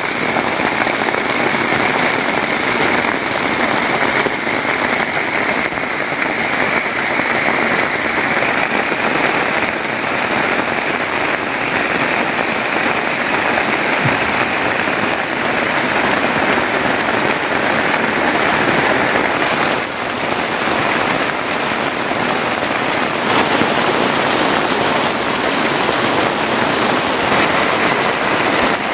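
Heavy rain falling steadily on a plastic tarpaulin, a dense and unbroken hiss.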